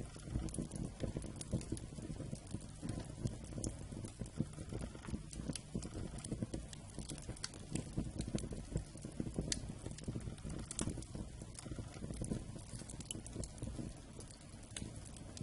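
Wood fire burning: a low steady rumble of flames with irregular sharp crackles and pops from the burning logs.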